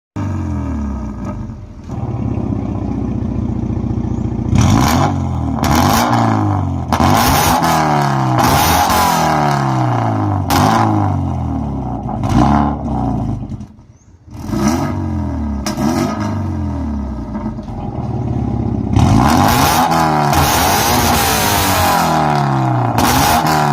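Toyota GT86's 2.0-litre flat-four engine, fitted with an aftermarket full-system valved exhaust, revving repeatedly. Each throttle blip rises sharply and then falls back in pitch, with a short quiet dip about halfway through.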